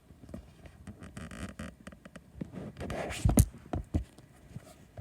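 Handling noise from a camera being moved and repositioned: rustling and light taps, with a few sharp knocks about three to four seconds in.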